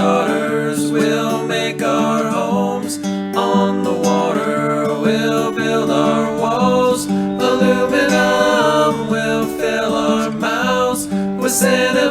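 Song music led by strummed acoustic guitar, with a melodic line moving above the chords.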